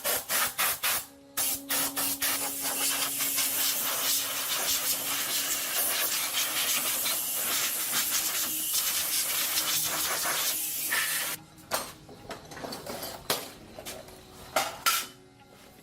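Hissing spray: a few short bursts, then a steady blast for about ten seconds that cuts off suddenly, followed by a few light knocks and clicks.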